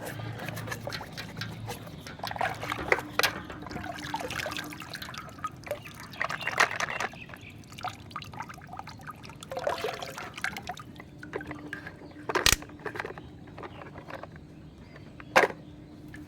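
Water splashing and trickling as muddy toy vehicles are washed by hand, with many small clicks and two sharp knocks, about twelve and fifteen seconds in.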